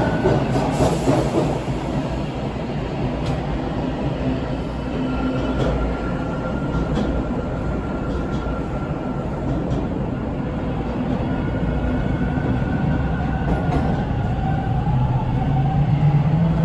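Bombardier T1 subway car running on the line, heard from inside: a continuous rumble with rattling and knocking and a few sharp clicks. A faint whine rises in pitch over the last few seconds as the sound grows a little louder.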